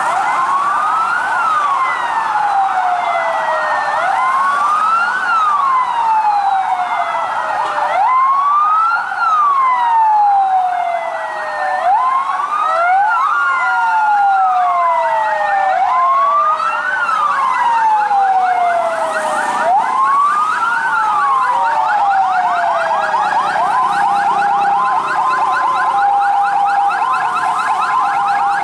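Several fire truck sirens sounding together in a parade: a wailing siren rising and falling about every four seconds over a fast yelping siren, and about three-quarters of the way through a two-tone hi-lo siren joins in.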